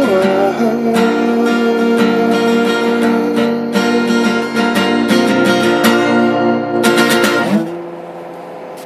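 Acoustic guitar strumming the chords of the song's outro, with no singing. A last chord about seven and a half seconds in is left to ring out and fade.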